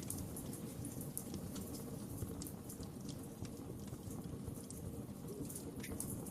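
Wood fire crackling, with frequent irregular small pops and snaps over a steady low rumble of the flames.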